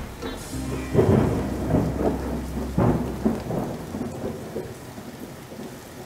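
Rushing water and rain noise broken by loud rumbling surges about a second in and again near three seconds, dying down over the last two seconds.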